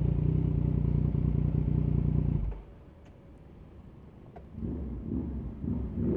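Yamaha MT-09 three-cylinder engine with an aftermarket Arrow exhaust, running steadily. It cuts off suddenly about two and a half seconds in. A fainter, uneven rumble returns near the end.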